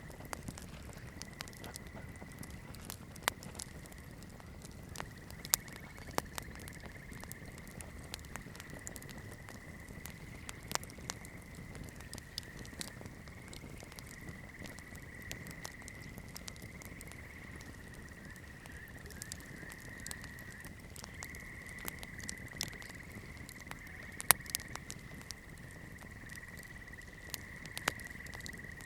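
Wood campfire crackling: irregular sharp snaps and pops over the low rumble of the burning fire, with louder pops about five and a half seconds and twenty-four seconds in. A steady high-pitched tone that wavers slightly runs underneath.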